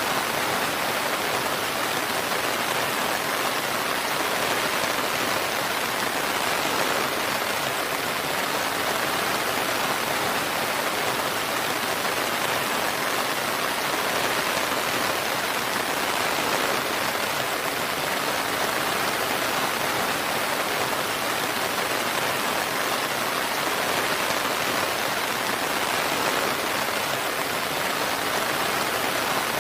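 Steady rain falling, an even hiss of many drops with no thunder or breaks.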